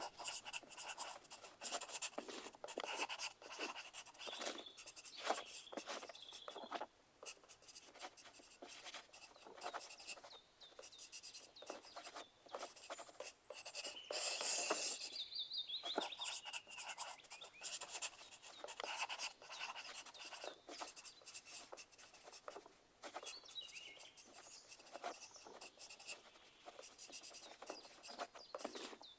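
Pencil writing on paper: a steady run of quick scratching strokes with brief pauses, the sound of test answers being written. The strokes are busiest about halfway through.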